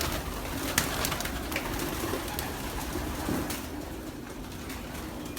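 Racing pigeons cooing in a loft, with a few sharp clicks in the first second and a half.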